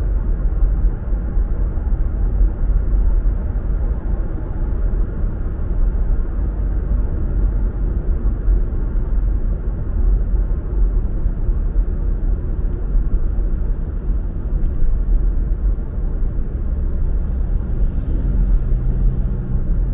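Steady low rumble of a car driving: road and engine noise. A low droning hum joins near the end.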